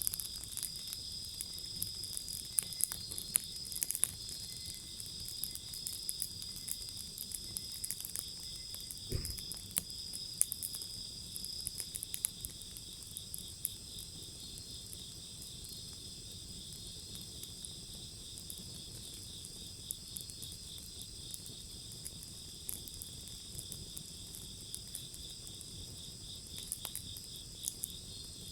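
Insects chirping steadily in high, pulsing trills, over the sharp snaps and crackles of a wood fire, which are busiest in the first dozen seconds. A single low thump about nine seconds in.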